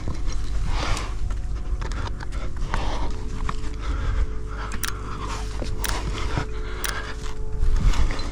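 A climber breathing hard while working up a sandstone chimney, with clothing and gear scraping and rubbing against the rock. Three sharp clicks come about a second apart in the middle.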